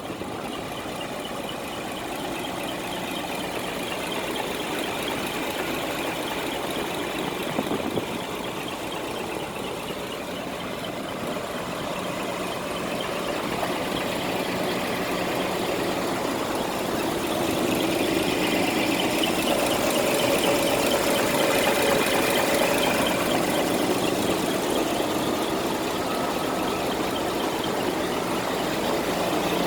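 Scania R420 truck's six-cylinder diesel engine idling steadily, growing gradually louder through the middle of the stretch.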